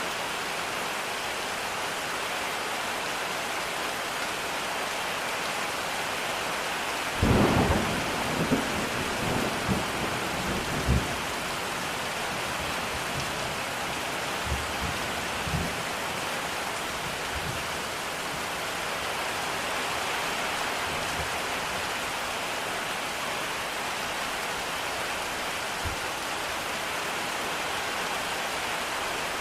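Steady rain hiss with a rumble of thunder about seven seconds in that rolls on for several seconds, followed by a few fainter low rumbles.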